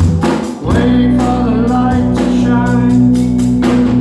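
Live rock band playing: electric guitars, bass and a drum kit with cymbal strikes, with voices singing over sustained chords. The sound drops briefly about half a second in, then a new chord rings on.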